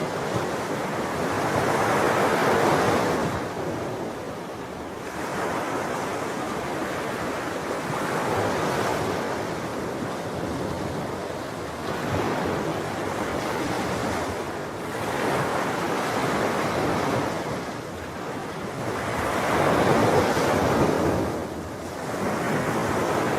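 Sea waves breaking and washing on a shore, a steady rushing surf that swells and ebbs every few seconds, with a bigger surge near the start and another near the end.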